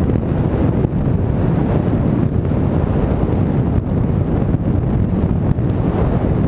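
Heavy wind buffeting the microphone: a steady, loud, low rumble with no engine or motor tone audible.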